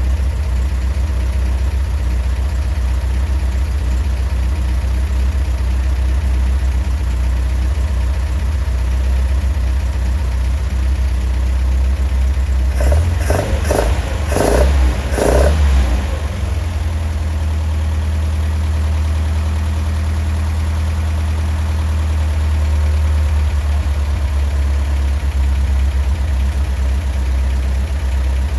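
Datsun Bluebird 411's J-type engine, on an MGB intake manifold with a copy Weber carburettor, idling steadily. About halfway through, three or four quick throttle blips briefly raise the engine note before it settles back to idle.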